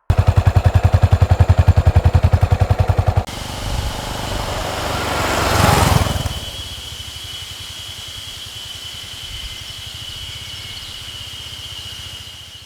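Yamaha SR400's single-cylinder four-stroke engine idling close up, an even fast pulsing exhaust beat, which cuts off abruptly about three seconds in. A vehicle then passes, swelling to a peak around six seconds and fading, leaving a steady low hum with a thin high tone above it.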